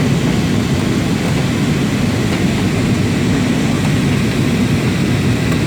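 Steady drone of engines and rushing air inside an airliner's cabin in flight, as the aircraft descends toward landing.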